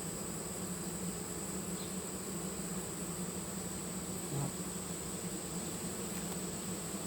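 Honeybees buzzing steadily, the low hum of a colony around an open hive, with a steady high-pitched whine above it. A brief soft bump about four seconds in.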